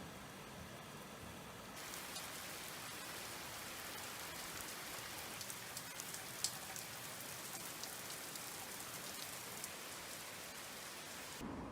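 Steady rain falling: an even hiss with scattered sharp drop taps. It grows a little louder about two seconds in.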